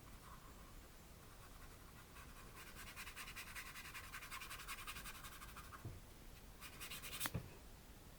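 Paintbrush scrubbing acrylic paint onto canvas in quick, short, scratchy strokes, faint. The strokes start a few seconds in, stop, then come again briefly and end in a light tap near the end.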